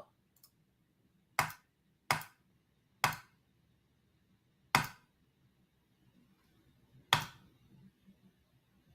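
Five sharp clicks at uneven intervals, each with a short tail, in a quiet room.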